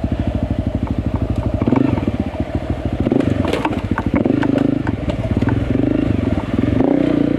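Enduro motorcycle engine chugging at low revs, then revved up and down in short repeated bursts as the bike is ridden over rough, wet ground, with a few sharp clicks and knocks.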